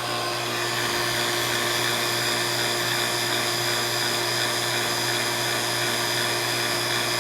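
Electric AC vacuum pump running steadily, a motor hum with a thin high whine, used to evacuate a car's air-conditioning system.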